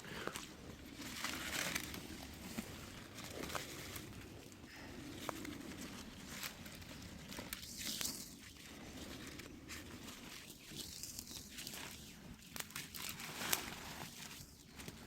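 Irregular rustling and crunching of undergrowth as someone moves through brush, with scattered sharp snaps and crackles.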